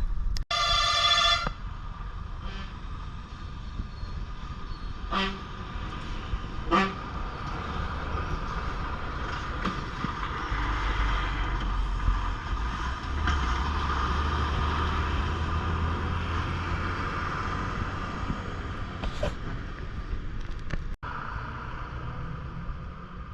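A vehicle horn blares for about a second near the start, two short sharp blips follow a few seconds later, then a heavily loaded lorry's diesel engine labours steadily uphill, its low rumble building from about ten seconds in.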